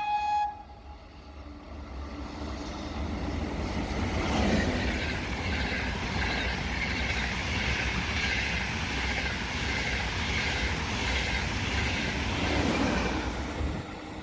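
Short, high horn toot, then a train running through a station, its noise building over a couple of seconds and its wheels clattering steadily over the rails as the cars pass, cutting off near the end.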